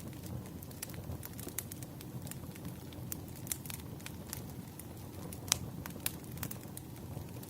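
Wood fire crackling: irregular sharp pops and snaps of burning logs over a steady low rumble, with one louder pop about halfway through.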